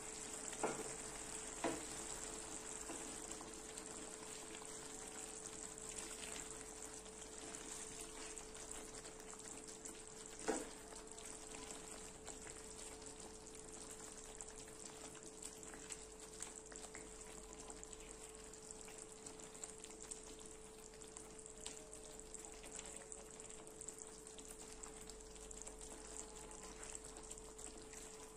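Chicken tikka masala sizzling in a pan as it is stirred. Sharp knocks come twice in the first two seconds and once about ten seconds in, and these are the loudest sounds.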